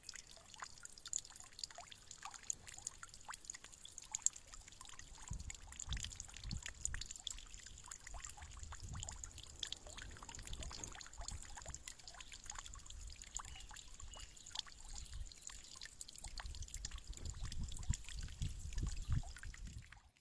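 Water trickling and dripping steadily, with many small scattered drips and splashes and intermittent low rumbles.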